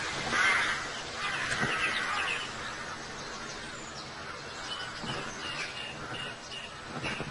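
Wild birds calling: short, high chirps, a quick run of them about five seconds in, over a rushing outdoor background.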